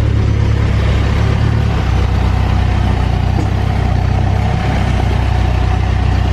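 Backhoe loader's diesel engine running steadily at low speed, its note shifting slightly about two seconds in and again near five seconds.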